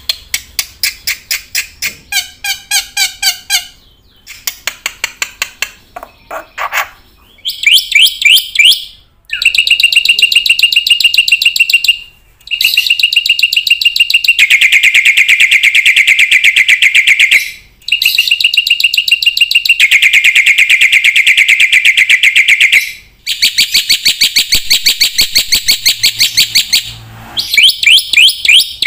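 A bird singing loudly in fast trills: short varied phrases at first, then long runs of rapidly repeated notes held at one pitch for several seconds each, with short breaks between them.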